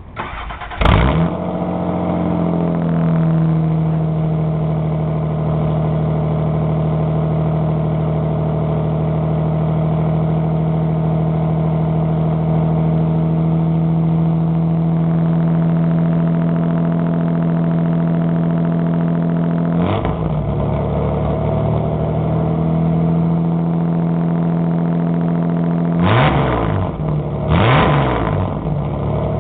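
Toyota 6M-GE 2.8-litre inline-six on a straight-piped exhaust with no catalytic converter, starting up loud. It catches about a second in with a flare of revs and settles to a steady idle within a couple of seconds. It is blipped once past the middle and several times in quick succession near the end.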